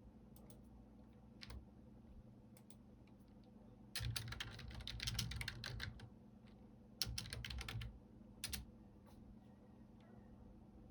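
Computer keyboard typing: a few scattered keystrokes, then a quick run of typing about four seconds in and two shorter runs a little later.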